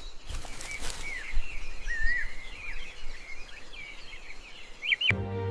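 Outdoor birdsong: many short chirps and whistled calls from small birds, with a couple of knocks about a second in. Music comes in just before the end.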